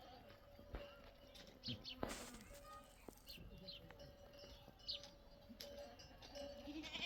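Quiet outdoor ambience: a few short, high bird chirps over a steady insect buzz, with a brief rustling rush about two seconds in.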